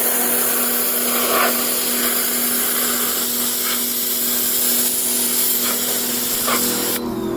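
A 2,500 PSI pressure washer spraying water onto car carpet: a loud, steady hiss of the jet over the pump's steady hum. It cuts off sharply near the end.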